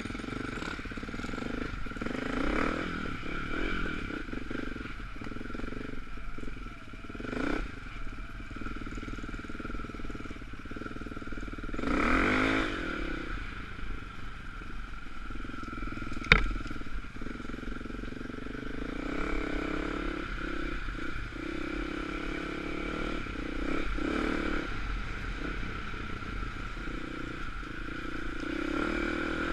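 Off-road trail motorcycle engine running while riding, its revs rising and falling a few times, with rattle from the bike. One sharp knock about sixteen seconds in.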